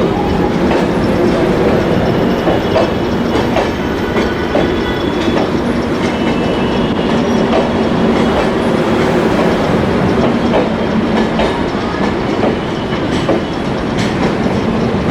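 LHB coaches of an express train rolling past on arrival, wheels clicking over rail joints with some faint high wheel squeals.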